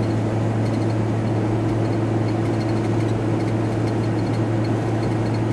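Inside the cab of a VW T4 Transporter van on the move: steady engine and road noise with a constant low hum.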